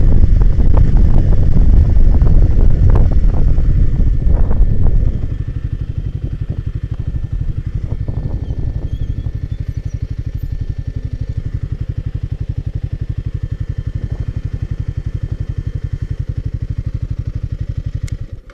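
Royal Enfield Himalayan 450's single-cylinder engine, heard on the move with wind on the microphone for about five seconds, then idling with a steady, even beat. The engine sound stops suddenly near the end.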